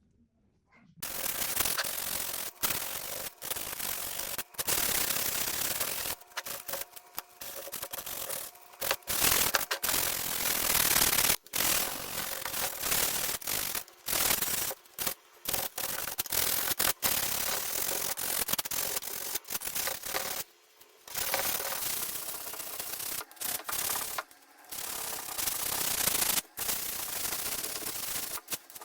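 Sanding a wooden chair frame: a continuous scratchy sanding noise that begins about a second in and stops and restarts abruptly many times.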